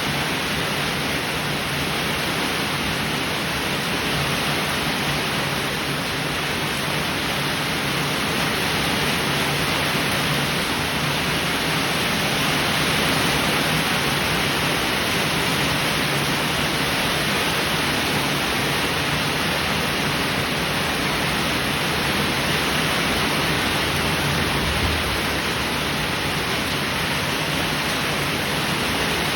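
Heavy rain falling steadily, a dense even hiss with no thunder standing out.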